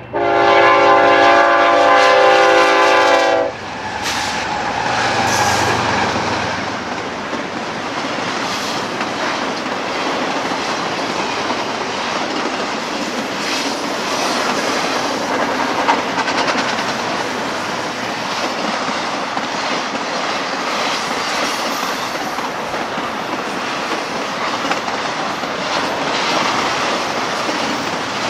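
BNSF freight locomotive's multi-chime air horn sounding a long blast that cuts off about three and a half seconds in; the lead GE diesel locomotives then rumble past, followed by a long string of double-stack intermodal cars rolling by with steady wheel-on-rail clatter.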